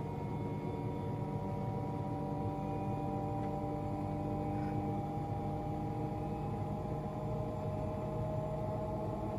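Washing machine running with a steady low hum and a motor whine that slowly falls in pitch.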